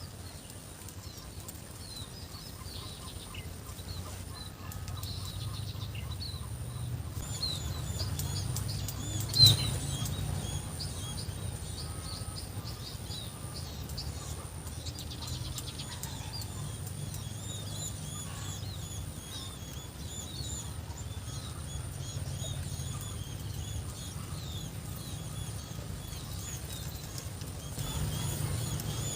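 Many small birds chirping busily in quick, high, repeated calls over a steady low rumble and a thin, steady high-pitched whine. One sharp click about nine seconds in.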